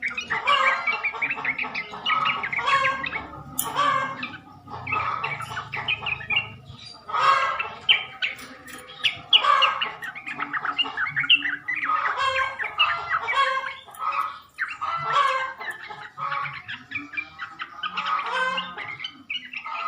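Sooty-headed bulbul (trucuk) singing: short, bubbly, chattering phrases, one after another with brief gaps.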